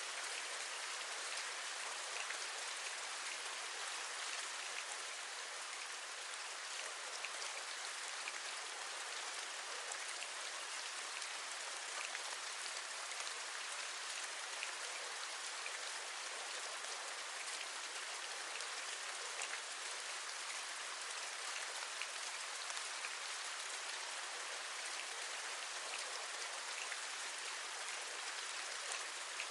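Steady rain with many small raindrops tapping on a window ledge, an even hiss with fine ticks throughout.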